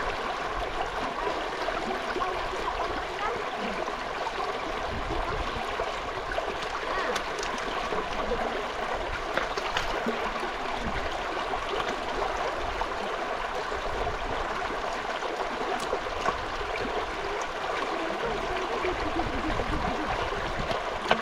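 Steady rush of running water, unchanging throughout, with a few faint clicks.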